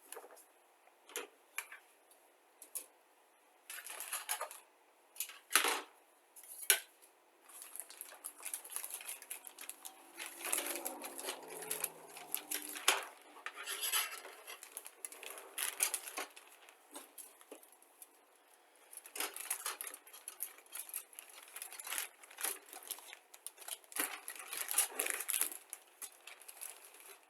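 Plastic model-kit sprues being handled: irregular clicks and clacks of hard plastic parts knocking together, with stretches of rustling as they are shifted about.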